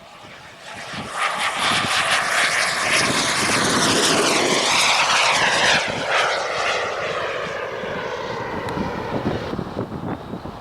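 Radio-controlled model aircraft flying past. The engine sound builds about a second in, is loudest for a few seconds with a sweeping pitch, then fades away.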